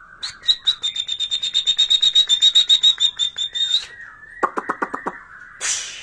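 White-rumped shama calling in answer to being provoked: a fast run of repeated high notes, about five a second for three and a half seconds, then half a dozen harsh clicking notes. Near the end there is a short hissed "cus".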